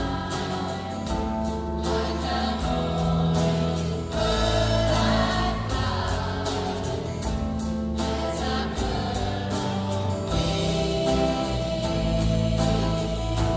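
A song sung by a choir over instrumental backing with bass and a steady beat.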